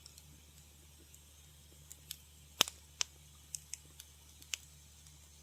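Wood fire crackling in a fireplace: irregular sharp pops and snaps, the loudest about two and a half seconds in, with a cluster of smaller crackles near the middle, over a faint low steady hum.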